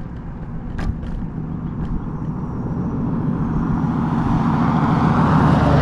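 Riding noise from an electric scooter on the move: a steady low hum with wind and road rumble that build louder over the last few seconds, and a sharp rattle about a second in.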